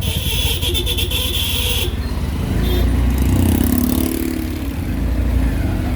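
Auto-rickshaw's small engine running with steady, rapid firing pulses amid street traffic. A high hiss runs for the first two seconds, and a held pitched tone sounds for about a second around the middle.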